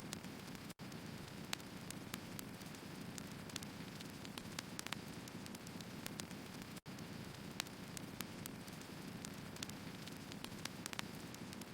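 Burning firewood: a steady low rush of flame with frequent irregular sharp crackles and pops from the wood. The sound cuts out for an instant twice.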